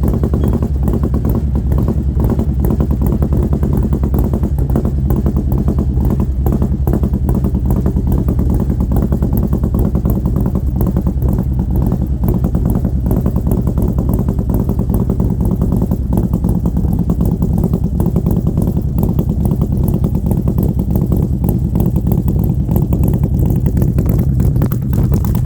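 Harley-Davidson Milwaukee-Eight V-twin with an SS 475 camshaft idling steadily through Mutazu 2.0 megaphone slip-on mufflers, a loud, even low-pitched rumble with no revving.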